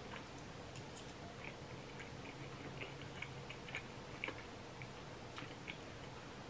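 A person chewing a mouthful of food close to the microphone, with scattered small clicks throughout.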